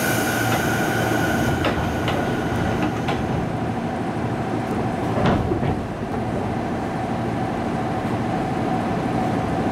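Running noise of a JR 205 series (0 subseries) commuter electric train heard inside the car: a steady rumble of wheels on the rails, with a few sharp clicks, the loudest about five seconds in.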